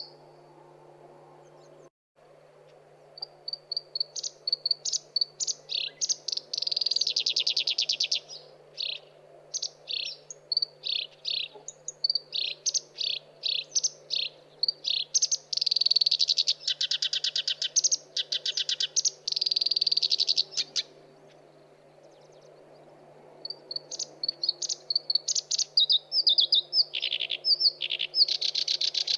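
Black-browed reed warbler singing: runs of rapid chattering notes broken by dense, fast buzzy trills. The song stops for about three seconds at the start and again for a couple of seconds about two-thirds through.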